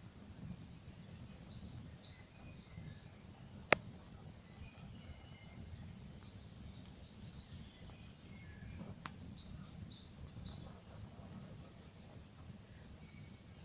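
Campfire burning with a low steady rumble and a sharp crackling pop about four seconds in, and a smaller one near nine seconds. Small birds sing high chirping phrases over it, twice in clusters.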